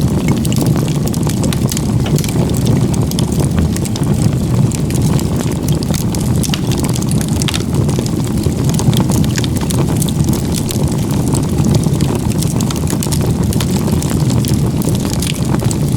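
Firewood campfire stacked log-cabin style (igeta-gumi) burning hard: a steady low rush of flame with many small crackles and pops scattered throughout.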